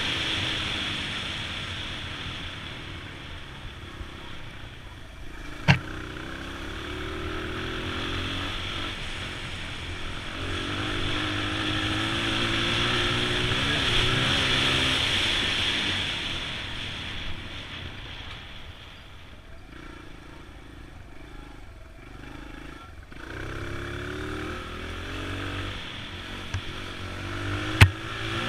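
2002 Honda XR100's single-cylinder four-stroke engine revving up and falling back again and again as the dirt bike rides a trail, running low and quieter for a few seconds past the middle, with wind noise on the microphone. Two sharp knocks stand out, one about six seconds in and one near the end.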